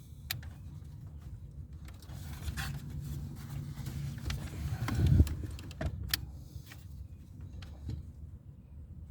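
Scattered plastic clicks and rattles of wiring connectors being unhooked behind a pickup truck's dashboard, with a louder knock about five seconds in, over a steady low hum.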